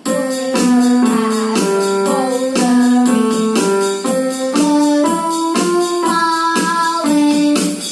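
Electronic keyboard playing a melody one held note at a time over a steady percussion beat from the keyboard's own rhythm accompaniment. It starts abruptly at the start.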